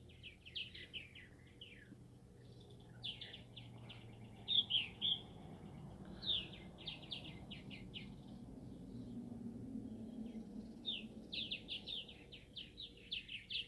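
Small birds chirping in quick runs of short, high notes, with pauses between the runs. A faint low rumble swells in the background midway through.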